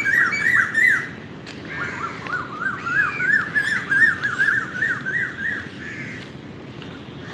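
Birds calling in fast series of short repeated notes: one run ends about a second in, and a second run goes from about two seconds to six seconds in. A steady low background rumble lies underneath.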